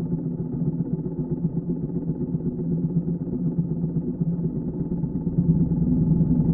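1941 BMW R75's flat-twin engine running steadily, getting louder about five seconds in.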